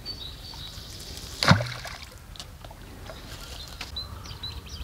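A small bird repeats short high chirps, a few a second, near the start and again in the second half. About a second and a half in, one loud brief sound sweeps quickly down in pitch.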